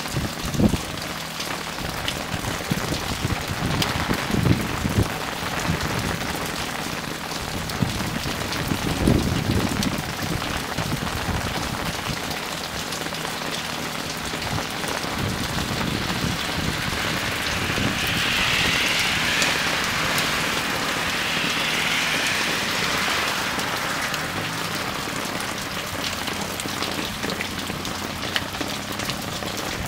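Steady rain falling on a street and pavement: an even hiss with many small drop ticks. Low thuds come through in the first ten seconds, and the hiss swells for a few seconds a little past the middle.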